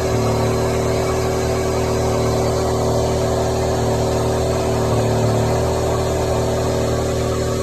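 Steady engine-like hum holding one pitch with no change in level.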